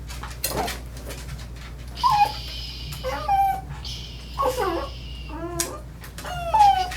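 A small dog whining and crying in short calls that bend up and down in pitch, several times over, the loudest near the end: a distressed dog resisting having its paws handled. Two hissing noises about a second long come in between the cries.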